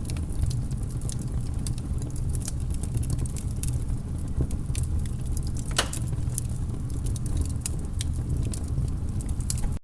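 Wood fire burning in a fireplace, crackling with irregular small snaps and pops over a low steady rumble, and one louder pop about six seconds in.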